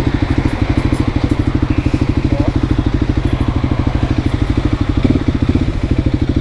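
Voge 300 Rally's single-cylinder engine idling steadily, with an even, rapid exhaust pulse and no revving.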